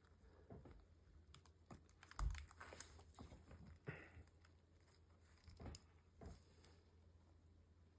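Faint, scattered light taps and clicks of small parts being handled and pressed into place inside an opened laptop, the loudest about two seconds in, with a brief scrape about four seconds in. A low steady hum runs beneath.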